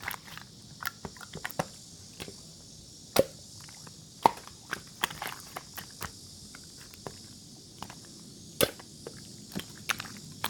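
Irregular sharp taps and clicks, a few much louder knocks among them, over a steady faint hiss.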